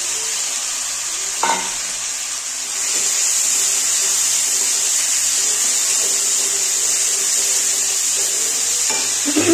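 Spice pastes and ground spices frying in hot oil in a metal kadai: a steady sizzling hiss that grows louder about three seconds in, while a metal spatula stirs the masala.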